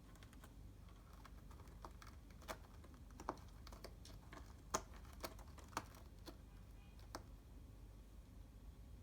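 Faint, irregular light clicks and taps, about a dozen spread unevenly, over quiet room tone.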